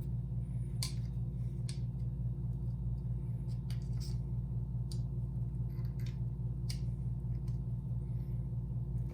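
Sharp, scattered clicks of a door latch mechanism being worked and prodded by hand, over a steady low hum.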